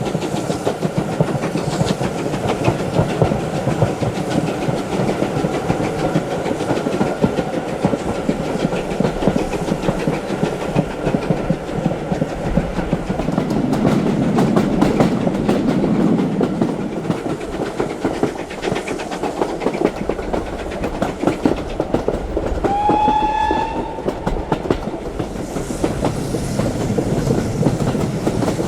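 Steam-hauled train running, its wheels clicking steadily over the rail joints with a low rumble. About three-quarters of the way through, the locomotive gives one short whistle.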